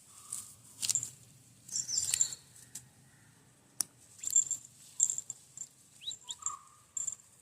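Birds and insects chirping: short, high chirps come scattered throughout, with a couple of quick rising calls and a short lower call near the end. A single sharp click sounds about four seconds in.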